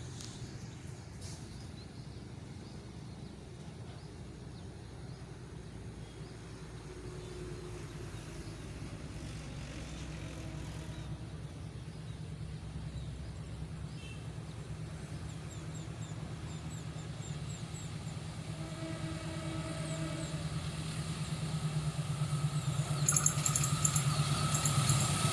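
Approaching diesel-hauled passenger train: a low engine rumble that grows steadily louder as it draws near, with short steady tones joining in near the end.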